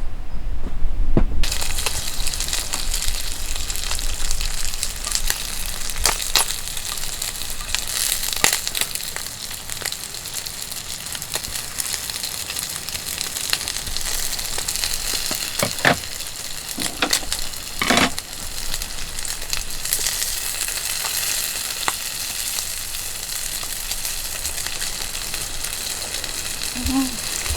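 Food sizzling in a pan, a steady frying hiss that starts about a second and a half in, with a few sharp clicks of a utensil against the pan.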